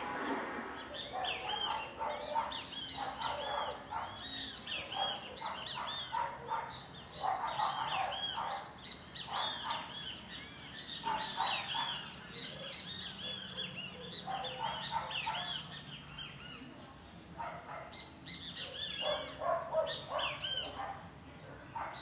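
Several small birds chirping and calling. Short arched chirps repeat in quick clusters, overlapping with lower calls, all through.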